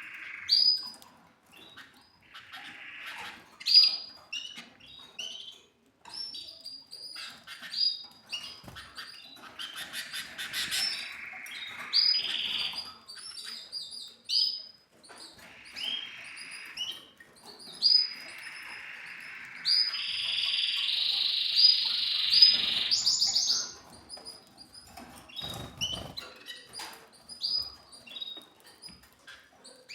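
Pet canaries chirping and twittering with short high calls and trills, breaking into a longer stretch of continuous song about two-thirds of the way through. A couple of brief low knocks are mixed in.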